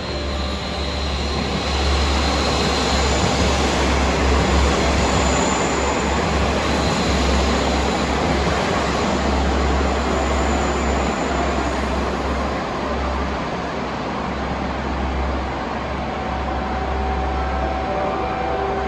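Diesel railcar running through the station, a steady engine rumble with the noise of its wheels on the rails, loudest a few seconds in.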